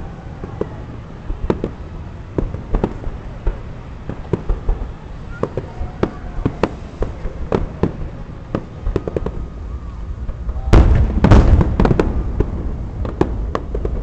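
Fireworks display: a run of separate bangs and pops, several a second, with a dense, louder volley of bursts about three-quarters of the way through.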